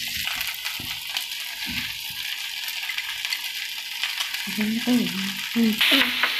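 Chilli chicken sizzling over a high flame in a frying pan while a spatula stirs and scrapes through it, with scattered knocks of the spatula on the pan. The sizzle gets louder near the end.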